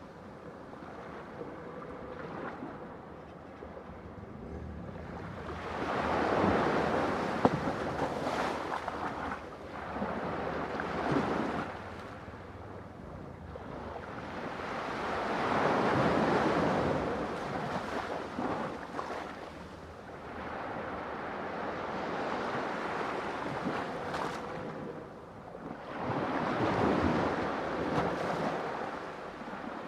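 Ocean waves breaking on a shore, a steady rush of surf that swells into a loud crash about every ten seconds and then washes back down.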